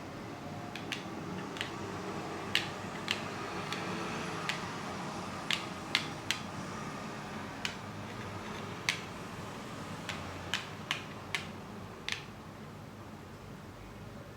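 Sharp, separate clicks or taps, about fifteen of them at irregular intervals, over a steady faint hiss.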